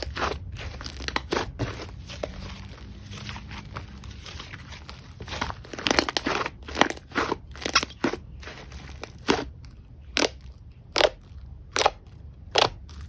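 Slime being squeezed and pressed by hand, giving off a run of sharp crackling pops and clicks; near the end the pops come singly, about one a second.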